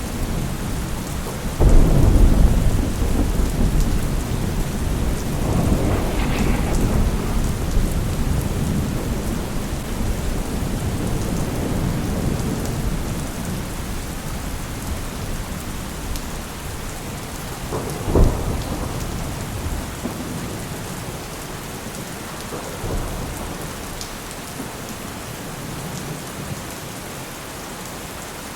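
Steady rain with thunder: a loud clap about two seconds in that rumbles on for several seconds, another peal around six seconds, a sharp crack about eighteen seconds in, and a fainter rumble a few seconds later, the storm growing quieter near the end.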